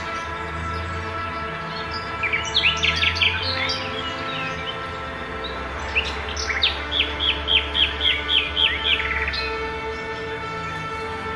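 Bird song over a sustained music drone: a quick burst of chirps about two seconds in, then a run of about ten repeated down-slurred notes starting about six seconds in, roughly three a second.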